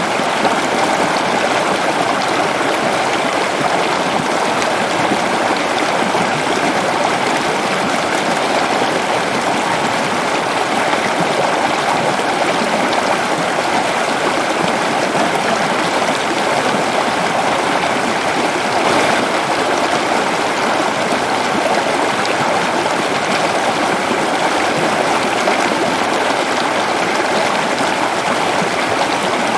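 Waterfall falling steadily into a forest stream: an even, unbroken rush of water.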